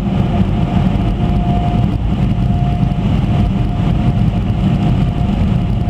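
Automatic car wash machinery running, heard from inside the car's cabin: a steady low rumble with a faint steady whine above it.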